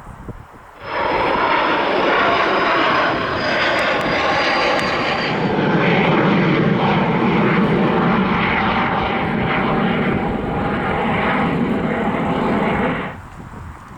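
Pilatus PC-24's twin Williams FJ44 turbofans running at takeoff power as the jet departs: a loud, steady jet roar with a thin high fan whine that falls slightly in pitch over the first few seconds. It starts abruptly about a second in and cuts off abruptly near the end.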